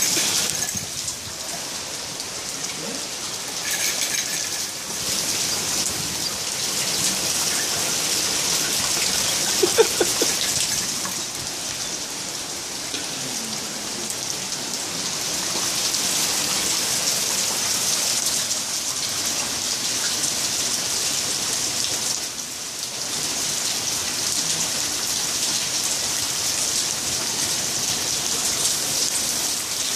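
Steady rain falling and hitting the ground, a dense hiss that swells and eases in intensity, with one brief louder sound about ten seconds in.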